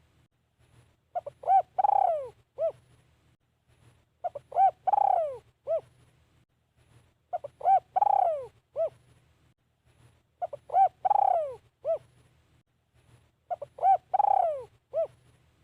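Spotted dove cooing: a phrase of a few short coos, one long coo falling in pitch, and a last short coo, repeated five times about every three seconds.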